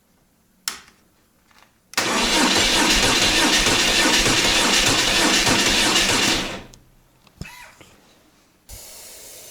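Motorcycle's electric starter cranking the engine for about four seconds without it catching, as the bike will not start after winter storage. Near the end, a steady hiss of aerosol starting ether sprayed into the air intake.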